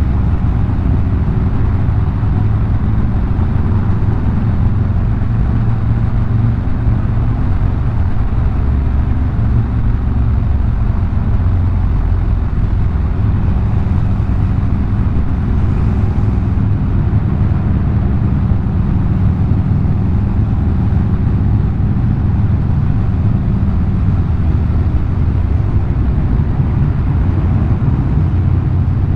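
Harley-Davidson V-twin motorcycle engine running steadily while riding, with a constant rush of wind and road noise over it.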